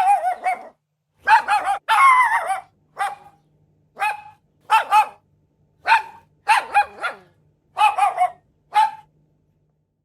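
Dog barking repeatedly: short, high-pitched barks, singly or in quick runs of two or three, about once a second, stopping about nine seconds in.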